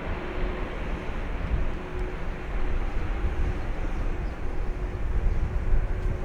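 Jet engines of a Boeing 767-300ER airliner giving a steady low rumble after landing, growing slightly louder, with a faint steady tone running through it.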